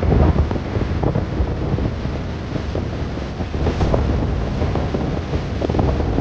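Sea wind buffeting the microphone in uneven gusts, over a steady rush of surf.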